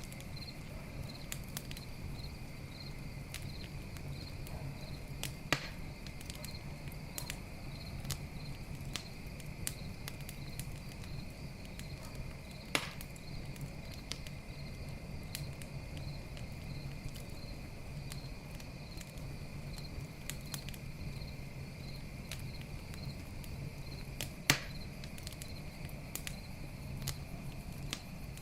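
Campfire crackling and popping, with three sharper pops, over crickets chirping steadily in a regular pulse.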